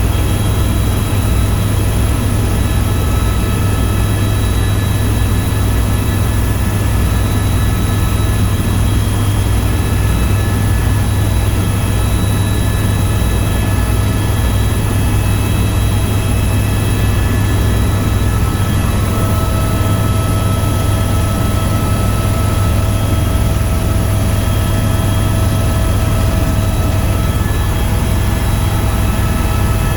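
Tour helicopter in flight, making a steady loud drone with a low pulsing beat from the rotor and a thin high whine.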